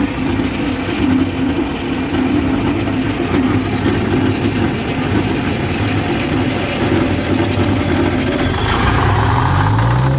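Detroit Diesel 4-71 four-cylinder two-stroke diesel running just after a cold start on ether spray, steady at first, with the revs rising near the end.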